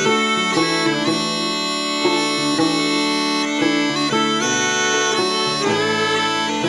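Scottish smallpipes playing a slow melody over a steady drone, with fiddle and gourd banjo, in an old-time waltz arrangement of a Scottish pibroch.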